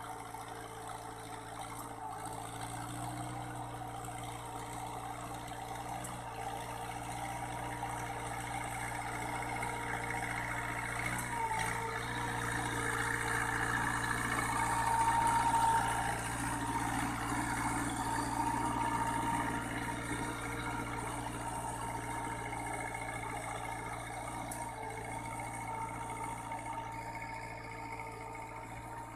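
Farm machine engine running steadily with a constant whine, growing somewhat louder near the middle and then easing back.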